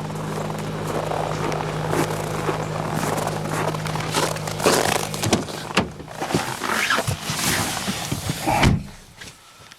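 Audi Q5's 3.0-litre V6 TDI diesel idling cold with a steady low hum that stops abruptly about five seconds in. A run of irregular clicks and knocks follows, with a heavier thud near the end.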